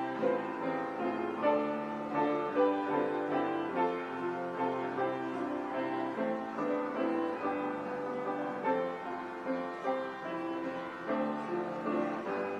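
Piano playing slow music in chords, several notes sounding together and changing about once a second.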